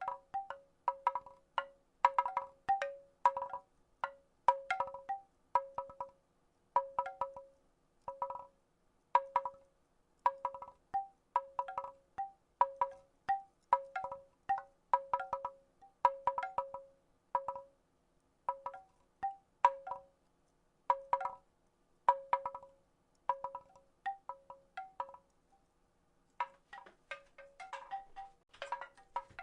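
Wooden rattle shaken in short bursts about once a second, each burst a cluster of quick clacks with a short, pitched, hollow ring. There is a brief pause near the end.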